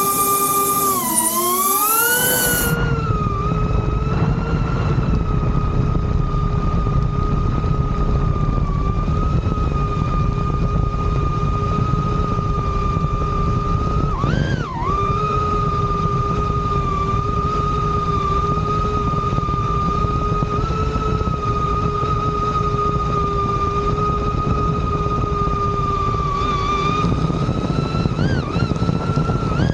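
DJI Avata 2 FPV drone's propellers whining steadily in flight, the pitch dipping and recovering briefly about a second in and again around halfway through. A loud low rushing noise runs under the whine from about two seconds in.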